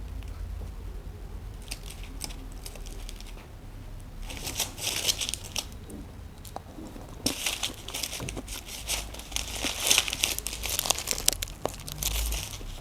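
Burger wrapper being unwrapped and crinkled, in a short spell about four seconds in and a longer one from about seven seconds until near the end, with light ticks before.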